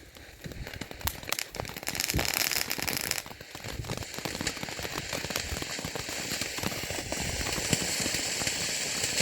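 Consumer firework burning on the ground with dense crackling and a steady hiss that starts about two seconds in.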